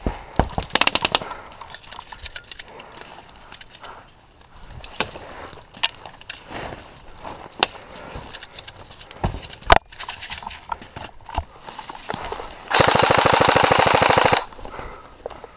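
Airsoft guns firing: a quick run of shots about half a second in, scattered single shots and cracks throughout, then a long full-auto burst of about two seconds near the end, the loudest part.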